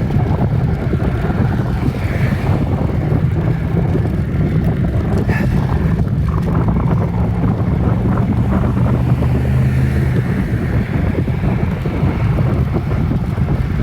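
Wind buffeting the microphone of a bicycle-mounted phone while riding, a steady low rumble.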